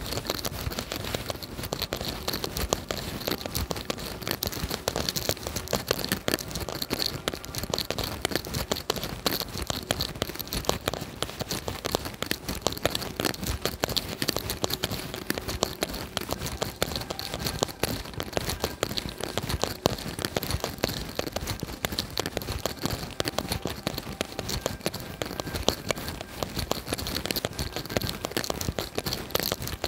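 Steady rain: a dense, even patter of countless small drop impacts close to the microphone, with no let-up.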